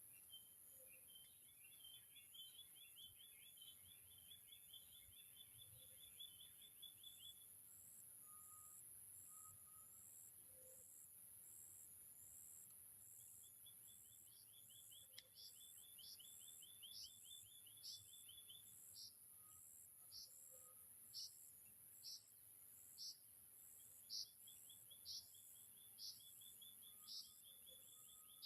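Faint outdoor chorus of insects and calling creatures: a steady high hiss, evenly spaced chirps about twice a second, and rapid trills lasting several seconds that come three times.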